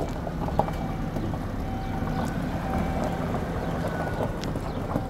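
A motor running steadily with a low hum, with scattered light clicks and knocks.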